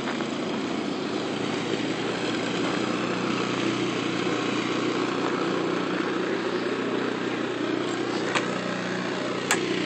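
Snowblower engine running steadily, a constant drone with a hiss over it. Two brief sharp clicks near the end.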